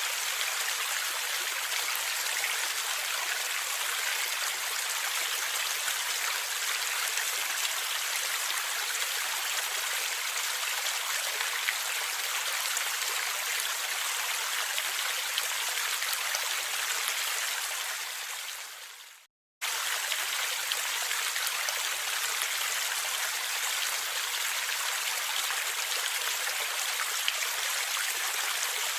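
Small river or stream flowing and gurgling steadily, a bright even rush of water. About two-thirds of the way through it fades out to a moment of silence, then starts again abruptly at full level, as at the seam of a looped recording.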